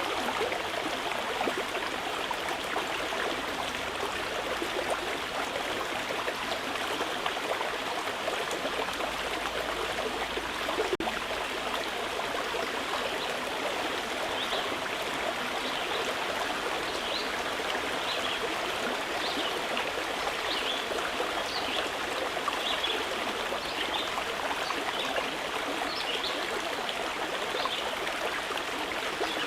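Mountain river flowing steadily, with short high bird chirps repeating over it from about halfway through.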